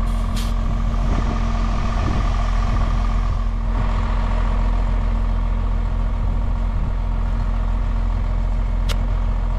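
Tractor engine idling steadily. A hiss runs for about three seconds near the start, and a single sharp click comes near the end.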